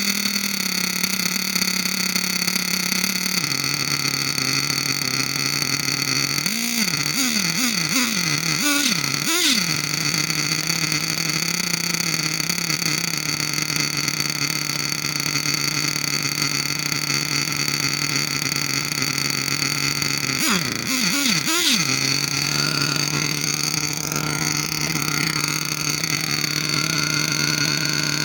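Alpha Racing .28 five-port nitro engine in a Kyosho Inferno MP9 TKI4 1/8 buggy running at a steady idle, blipped up and down in pitch several times about a third of the way in and again about three-quarters of the way through.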